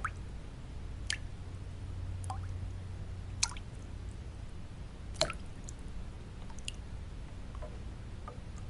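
Water drops falling one at a time into water, each a short plip with a quick rising pitch, at irregular intervals of about one a second. Under them runs a steady, low-pitched white-noise bed.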